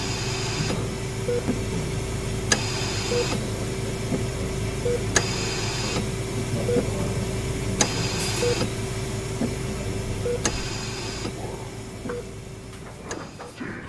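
Hospital-room machine ambience for a horror soundscape: a steady electrical hum, a short soft beep about every two seconds, and a click followed by a brief hiss about every two and a half seconds. The hum fades out near the end.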